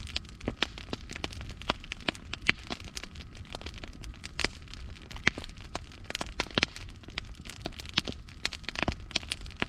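Wood fire in a fireplace crackling, with frequent sharp irregular pops and snaps over a low steady rumble of burning logs.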